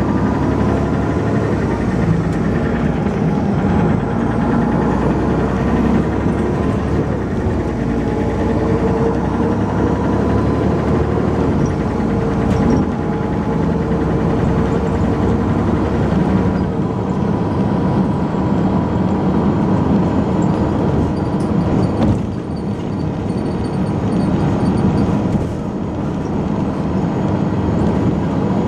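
Dennis Arrow double-decker bus's diesel engine running steadily while the bus is under way, with a steady whine and a constant engine drone.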